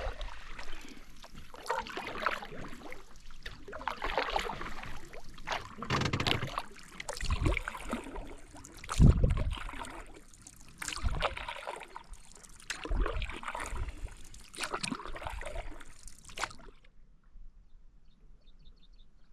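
Canoe paddle strokes dipping and splashing in the water at an even pace, about one every one and a half to two seconds, stopping suddenly near the end.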